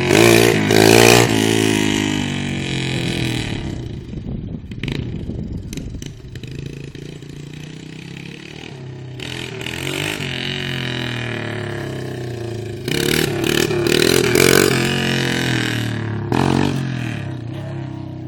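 Dirt bike engine running and revving, its pitch rising and falling. It is loudest near the start and again about two-thirds of the way through, and softer in between.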